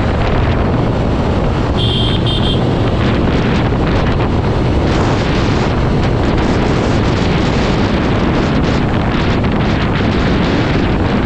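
Wind blasting the microphone on a motorcycle at highway speed over steady engine and road rumble. About two seconds in there is a short high beep, heard twice.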